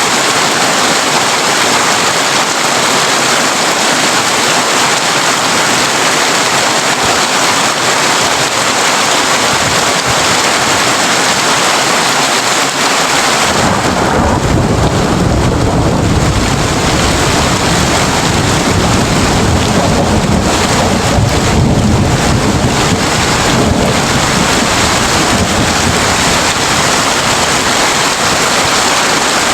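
Heavy rain drumming steadily on a tin roof. About halfway through, a low rolling rumble of thunder comes in and carries on under the rain to the end.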